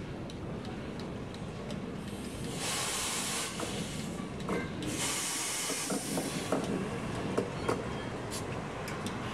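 Vintage BOB electric locomotive No. 29 and its old wooden-bodied coaches rolling slowly through a station, with a low rumble throughout. Two loud bursts of air hiss come about 2.5 and 5 seconds in, followed by a run of sharp clanks and knocks from the wheels and couplings as the coaches pass.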